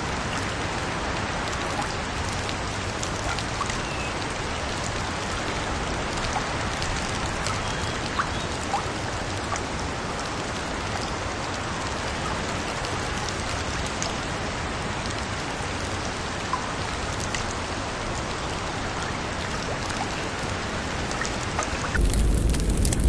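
Steady rain: an even hiss with scattered faint drips. About 22 seconds in it cuts abruptly to a louder, deeper crackling fire with sharp pops.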